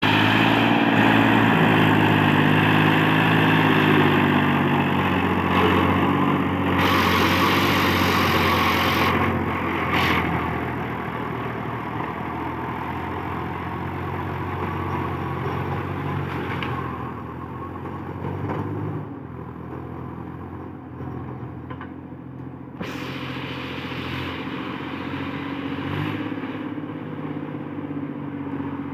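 Massey Ferguson 7250 tractor's diesel engine running steadily while working a rotavator. It is louder for the first ten seconds or so, then somewhat quieter.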